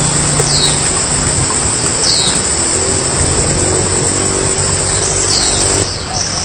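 A small bird gives three short, high, falling chirps, about two seconds or more apart, over a loud steady background noise.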